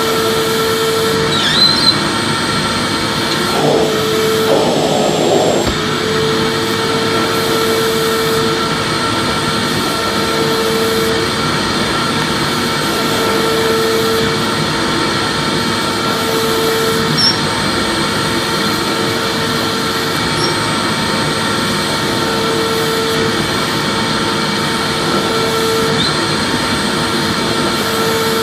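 Vacuum cleaner running steadily, a continuous rushing whine with a lower hum that swells and fades about every two and a half seconds, and a brief change in the sound about four seconds in.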